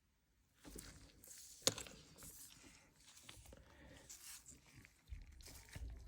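Faint, irregular rubbing and scratching of a paper trading card being worked with light strokes to ease out a pinched corner, with one sharp click a little under two seconds in.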